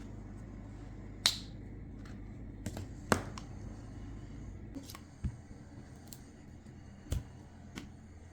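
A pen cap snapped shut with a sharp click, then a few more scattered clicks and taps as pens are handled.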